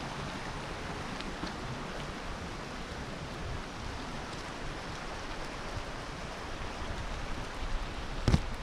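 Steady rushing water noise, with one sharp knock about eight seconds in.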